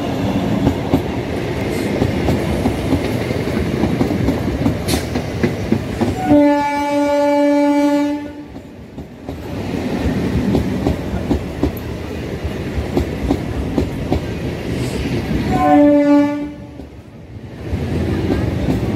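EMU electric local train running past on the track, its wheels rumbling and clacking over the rail joints. A horn sounds twice: a longer blast about six seconds in and a shorter one about sixteen seconds in.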